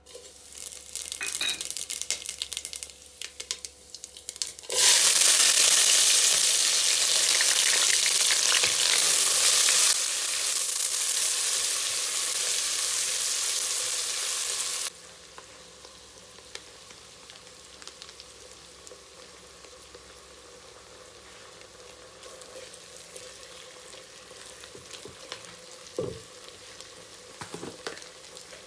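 Food frying in hot oil in a pan. A loud sizzle starts about five seconds in and drops sharply to a quiet sizzle some ten seconds later. A few sharp utensil taps come near the end.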